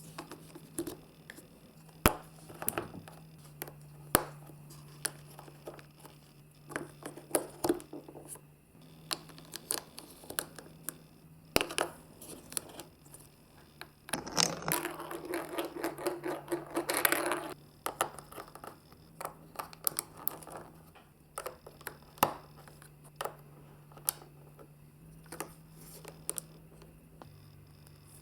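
Marbles clicking and knocking through a plastic block-and-magnet marble run, with a longer stretch of continuous rolling and rattling from about 14 to 17 seconds in. A faint steady low hum runs underneath.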